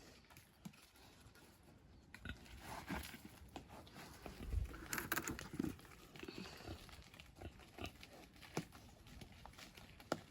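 Farm animals eating apples they have just been given: faint, irregular chewing and animal noises.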